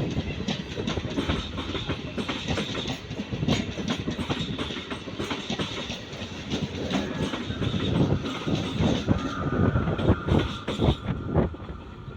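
Train passing close by, its wheels clattering over the rail joints in quick, dense knocks over a steady rumble. A faint steady high tone joins about nine seconds in.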